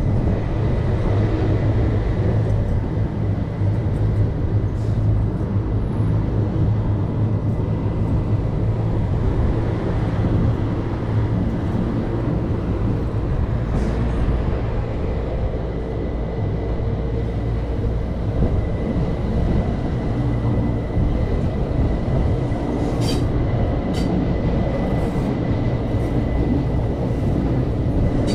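Electric passenger train running steadily: a continuous low rumble of wheels on rails with a faint steady high whine, and a couple of short clicks near the end.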